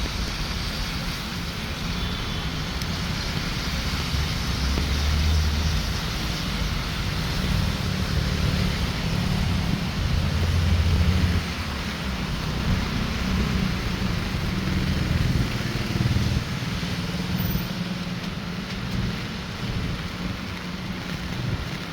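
Steady rain on a city street, with vehicles passing on the wet road and a low rumble that swells about five and ten seconds in.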